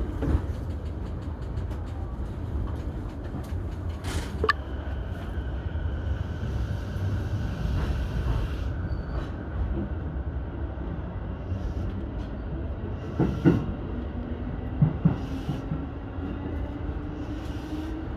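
Keihin-Tohoku Line electric commuter train running, with a steady low rumble of wheels on rail and a few sharp knocks from the track. Near the end a motor whine rises slowly in pitch as the train picks up speed.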